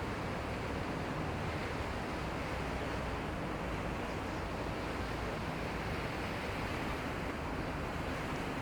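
Steady rushing noise with a low engine hum underneath, as of a harbour boat's motor running near the water.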